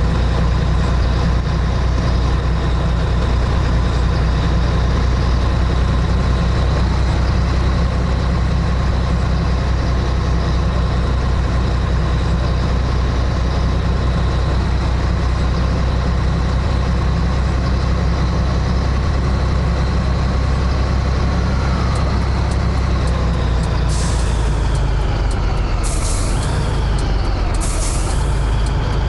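Scania 113H truck's straight-six diesel engine running steadily under way. About three quarters of the way through, the engine note falls as the truck slows, and near the end come three short hisses of air, about two seconds apart.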